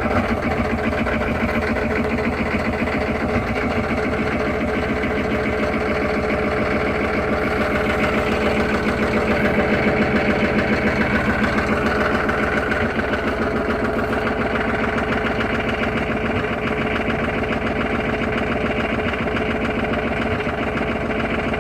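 1996 GM 6.5-litre V8 diesel idling just after a cold start with the block heater not plugged in: a steady, even diesel clatter with a bit of a rattle.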